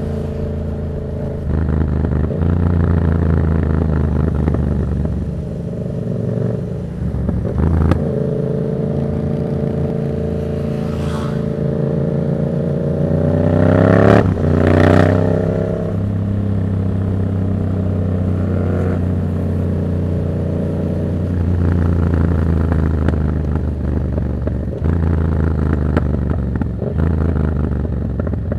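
Yamaha MT-07's 689 cc parallel-twin engine through a Black Widow exhaust with no dB killer, running under way with changing throttle. About halfway through it revs hard, the pitch climbing to a loud peak, then drops away.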